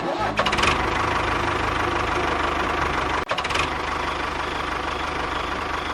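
A motor running steadily with an even, rapid rhythm, cut off for an instant about three seconds in before it carries on.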